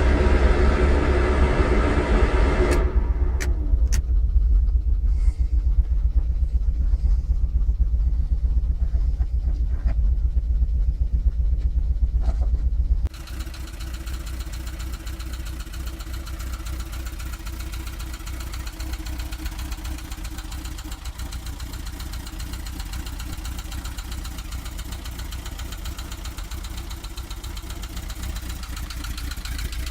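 Volkswagen Vanagon's engine running, with a few sharp clicks about three to four seconds in. About thirteen seconds in the sound cuts abruptly to a quieter, steadier run.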